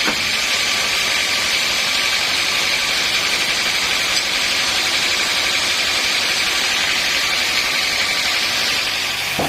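Sawmill machinery running steadily, a loud, even hiss with a faint whine, as of a saw and its motor at work on a log.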